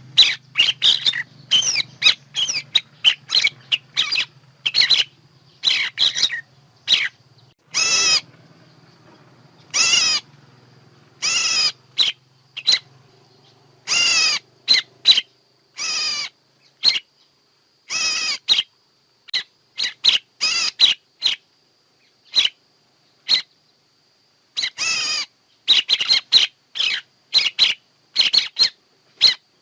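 Bird calling: many short, sharp chirps in quick runs, with a few longer, harsher notes. This is a lure call used for bird trapping.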